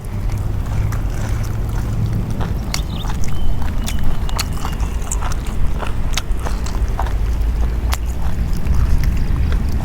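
Wind rumbling on the microphone, with scattered small clicks and crunches throughout, consistent with someone eating.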